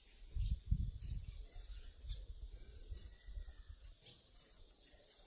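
A few faint, short, high chirps from small birds over an uneven low rumble that is strongest in the first second and dies away by about four seconds in.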